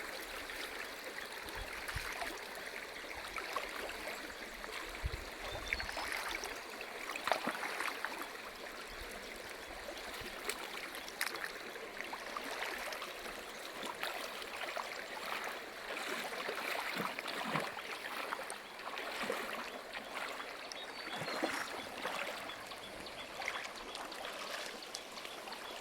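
Shallow stream water running and trickling over rocks, a steady rush with small splashes and clicks throughout.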